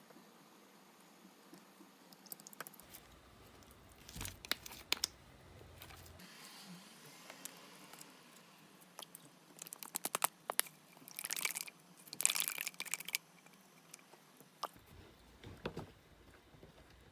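Clear slime being made by hand: scattered small clicks and taps with crinkly crackling, and a busier run of clicks and crackle about ten to thirteen seconds in.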